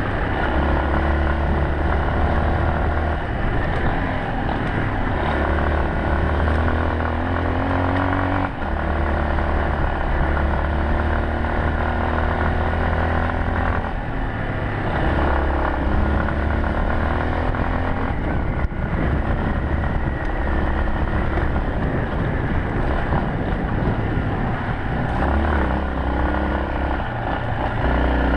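Yamaha Serow 250's single-cylinder four-stroke engine running while the bike is ridden, its engine speed rising and falling.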